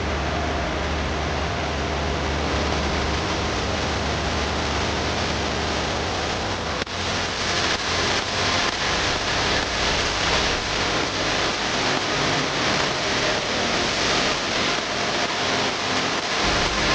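Steady rush of falling water from the Rain Vortex indoor waterfall. About seven seconds in, a cut brings it louder and closer.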